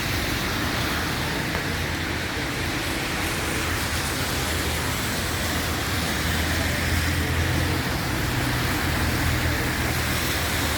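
Steady rain hiss mixed with a low vehicle engine hum from road traffic, the hum swelling a little in the middle and again later on.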